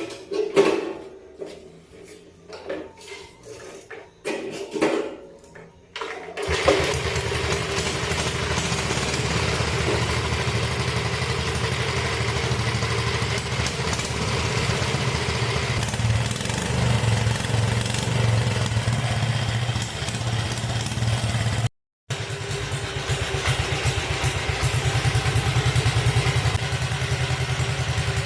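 Engine of a replica 1910 Harley-Davidson motorcycle. A few short, separate bursts come first, then about six seconds in it settles into a steady run with a fast, even beat. The sound drops out briefly near the end and then carries on.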